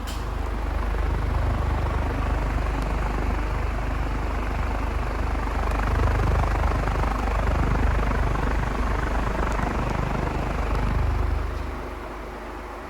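2006 Primavera Tropical ceiling fan running fast: a steady rush of air from the blades with a low rumble, easing off near the end.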